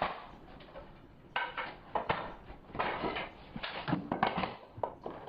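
A 16-gauge finish nailer being handled and loaded with a strip of 1.5-inch nails: several short bursts of metallic clicking and clatter at irregular intervals.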